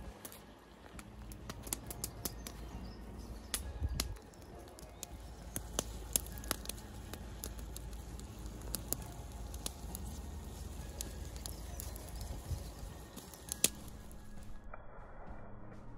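Wood campfire crackling: irregular sharp snaps and pops, one or two a second, over a low outdoor rumble.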